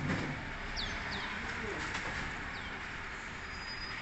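Birds chirping: several short, high calls, each falling in pitch, over a steady background noise.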